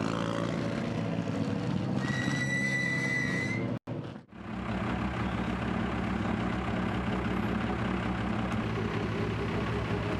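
Mitsubishi Lancer Evolution X rally car's turbocharged four-cylinder engine running as the car passes close, with a high whistle-like tone for about a second and a half near the middle. After a brief dropout about four seconds in, an engine runs steadily at idle.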